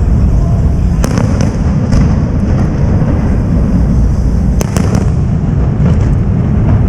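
Fireworks display: a continuous low rumble of shells bursting, with sharp cracks about a second in and again past the middle.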